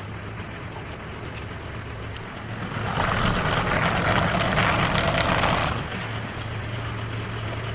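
An electric drill running steadily, spinning a carpet-lined PVC-pipe buffer that polishes a pool ball. A louder rubbing hiss from the carpet swells from about three seconds in to about six seconds in.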